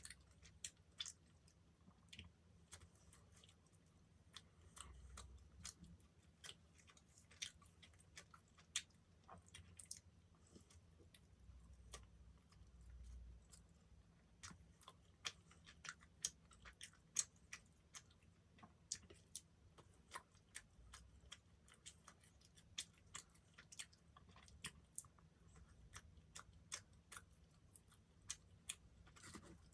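Faint close-up chewing of a soft dessert, with many small irregular wet mouth clicks.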